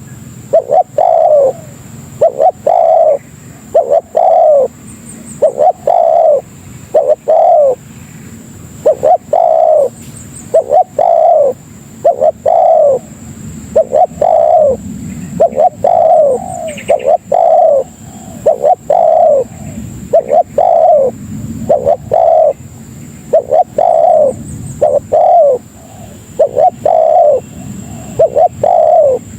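Spotted dove (tekukur) cooing: short falling coos in groups of two or three, repeated steadily about every one to two seconds.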